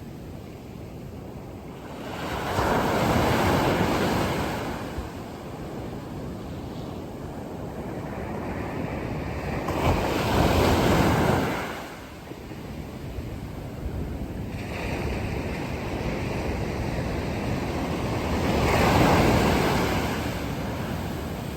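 Sea waves surging in and breaking on the shore three times, each swell building and then falling away, about eight seconds apart. There is a steady rush of wind underneath.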